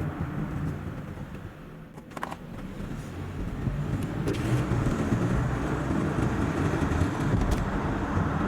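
Car driving noise picked up inside the vehicle, tyre and engine rumble sped up by double-speed playback. It drops to its quietest about two seconds in, with a brief click just after, then builds back up and holds steady.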